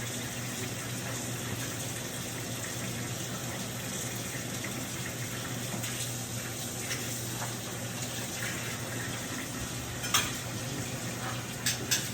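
Steady rushing noise with a low hum underneath, like water running from a kitchen tap, with a few sharp clicks about ten seconds in and near the end.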